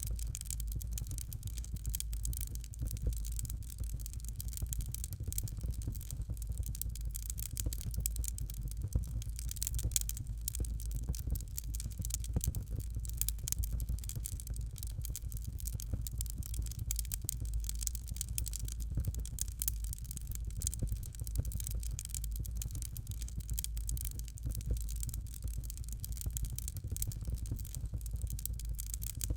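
Fireplace fire crackling steadily: a dense run of small pops and snaps over a low rumble of the flames.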